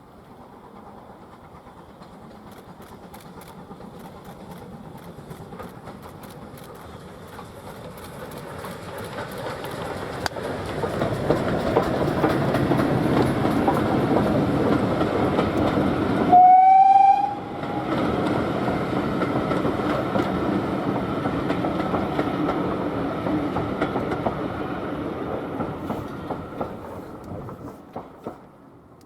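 A steam-hauled train approaching and running past, its rail and wheel noise swelling and then fading, with one short, loud blast of the locomotive's whistle about halfway through.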